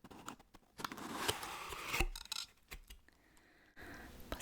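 Close-miked handling sounds: sharp clicks and a stretch of rustling, with a low thump about two seconds in.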